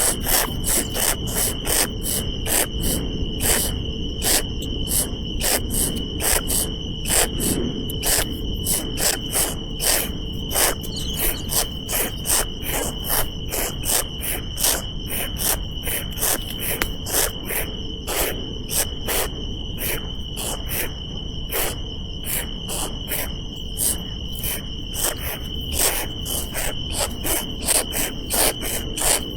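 Insects chirping, with sharp chirps repeating two or three times a second over a steady high-pitched hum.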